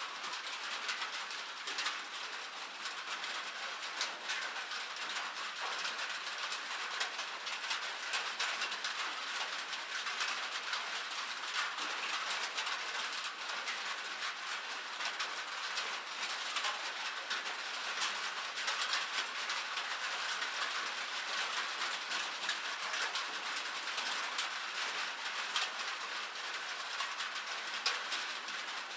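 Steady rain, with many small drops pattering in quick, irregular taps over a continuous hiss.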